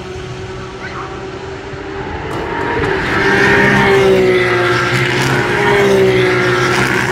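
Porsche race car engines running at high revs as cars pass, the sound swelling to its loudest in the middle and easing off near the end, the engine note bending slightly as they go by.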